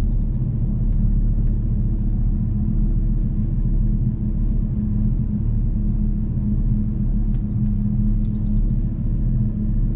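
Turbocharged 8.3-litre V10 of a 2004 Dodge Ram SRT-10 pickup cruising, with its custom fender dump exhaust giving a steady low drone at an even pitch. Heard from inside the cab.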